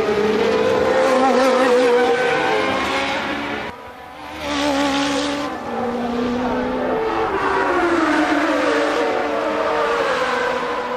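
Formula One race car engines at full racing speed, their pitch rising and falling as the cars accelerate and shift. The sound dips briefly about four seconds in, then returns.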